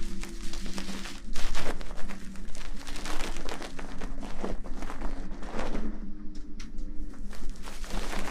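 Close-miked ASMR rustling and crackling, irregular short scratchy sounds right against the microphone, over low held tones that shift in pitch every second or two.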